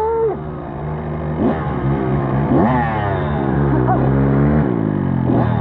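Dirt bike engine being ridden hard, revving up and dropping back several times in quick succession. It holds one steady pitch for about a second past the middle, then falls off.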